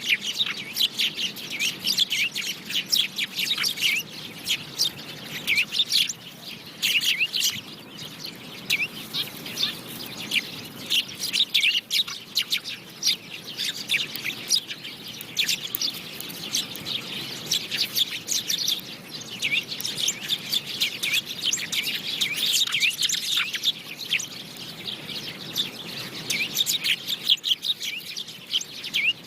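House sparrows chirping, many short chirps overlapping in busy clusters, several birds at once.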